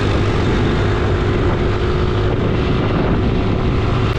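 Motorcycle running at a steady cruise: a constant engine drone with one steady tone, under heavy wind rush on the microphone.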